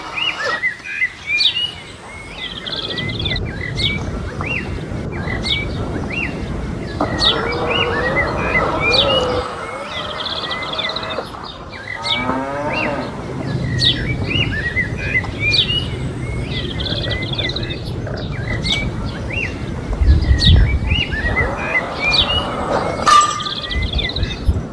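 A cow moos in a long, drawn-out call about a third of the way in and again near the end, while birds chirp in quick short notes throughout.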